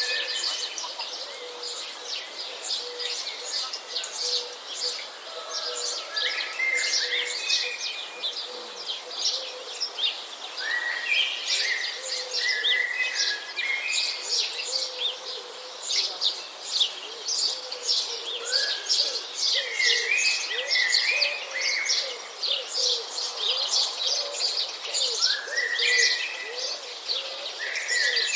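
A chorus of birds chirping steadily, with short rising whistled phrases breaking in every few seconds.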